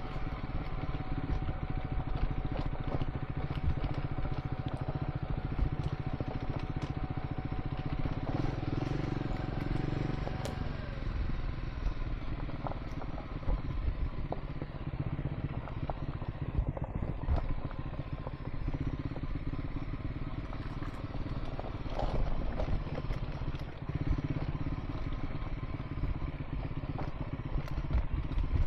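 Triumph Scrambler 400 X's single-cylinder engine running steadily while riding a gravel track, with frequent short knocks and clicks from stones and the bike on the rough surface.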